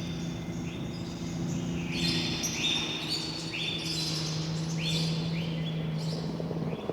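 Birds calling in a series of short, repeated chirps about half a second apart, over a steady low hum that stops near the end.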